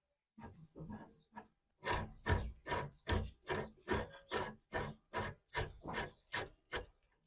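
Repeated rubbing strokes of a hand tool on a workpiece: a few soft ones, then about two a second, evenly spaced, from about two seconds in until near the end.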